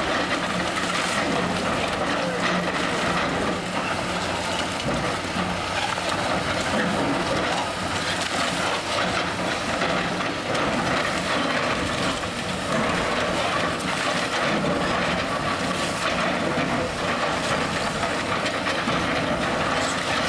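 Heavy demolition machine's engine running steadily, with scattered clanks and rattles of bricks and rubble being spread on the ground.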